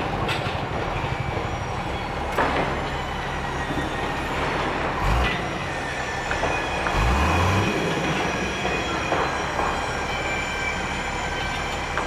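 Heavy engine-driven machinery running steadily with a low rumble, a brief rise in engine pitch about seven seconds in, and a few sharp metallic clanks with a thin squeal above.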